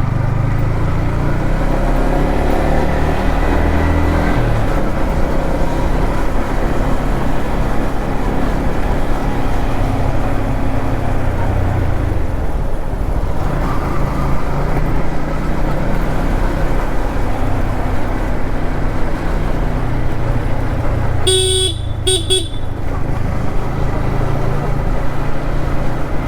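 Yamaha MT-15's 155 cc single-cylinder engine running at highway speed, easing off briefly around twelve seconds in and then pulling again. A horn gives two short toots about 21 seconds in.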